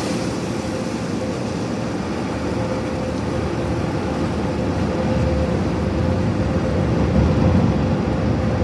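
Automatic car wash heard from inside the car: a steady rush of water spraying onto the body and windshield, over a steady machine hum. It grows a little louder in the second half.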